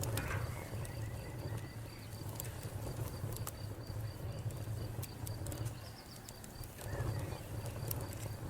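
Wood fire burning with a low steady rumble and scattered sharp crackles and pops of the burning wood. A faint high chirp pulses evenly a few times a second behind it.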